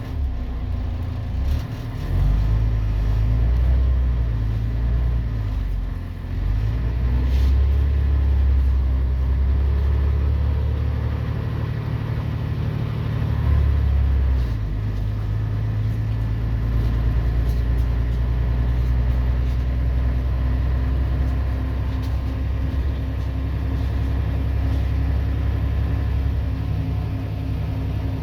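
Scania DSC 11.71 diesel engine of a Scania CN113CLL city bus running under load. The deep engine note steps up and down in pitch and loudness about 2, 6 and 14 seconds in.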